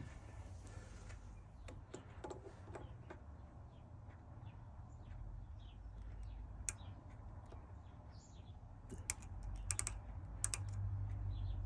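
A small metalworking machine tool running with a steady low hum while a connecting rod is machined, with scattered light clicks and ticks and a cluster of sharper clicks near the end.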